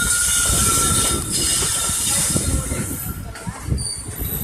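A train running on the rails, with a steady high-pitched squeal over rumbling and hiss; the squeal fades out about three seconds in.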